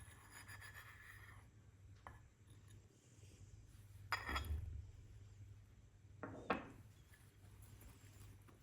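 Small household objects being handled and set down: a soft rustle at the start, a light click about two seconds in, then two short clattering knocks, the louder one about four seconds in and another about six and a half seconds in. A steady low hum lies underneath.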